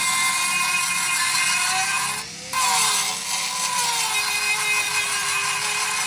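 A power tool working on metal, a steady harsh noise with a high whine running through it. It cuts out briefly about two seconds in, then picks up again.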